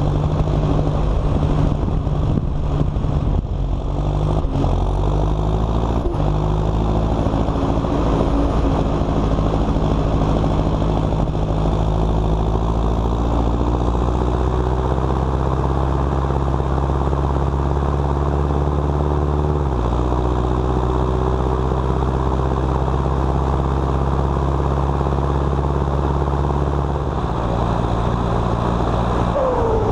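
Four-cylinder turbocharged engine of a John Deere 6230 Premium tractor running while hauling a loaded silage trailer. Its note steps in pitch several times early on, climbs steadily for a few seconds, then drops sharply about two-thirds of the way through and again near the end.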